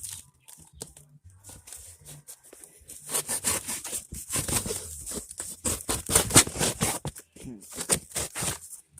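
Material being cut or torn: sparse scratches at first, then from about three seconds in a thick run of rough rasping strokes and snips that stops just before the end.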